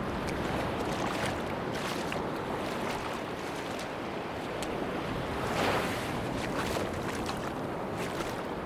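Sea waves washing on a beach in the wind, a steady rush with scattered small crackling clicks. One wave swells up loudest a little past halfway.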